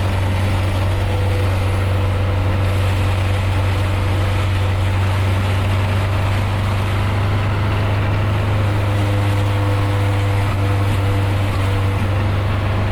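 Nissan 240SX engine and exhaust droning steadily while cruising at a constant speed, with even road and tyre noise underneath.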